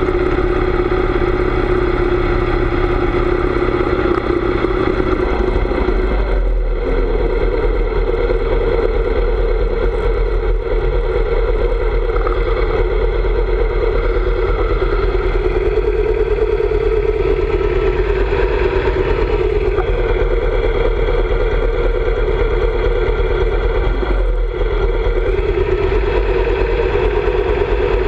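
Harley-Davidson V-twin motorcycle engine running steadily while riding, with a heavy low rumble. The engine note dips briefly and changes pitch about six and a half seconds in, and dips again near the end.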